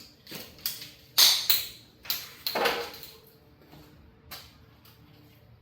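About half a dozen sharp clicks and short scraping strokes in the first three seconds, the longest about two and a half seconds in, from a water-supply pipe being cut; after that only a couple of faint clicks.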